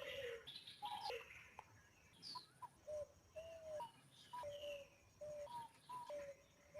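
Birds calling: a string of short, clear whistled notes repeated about twice a second, with scattered higher chirps over them. The first second is the loudest.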